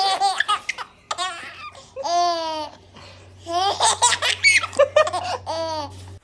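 A baby laughing in repeated bursts, with a long high squeal about two seconds in and then a run of quick, rhythmic laughs.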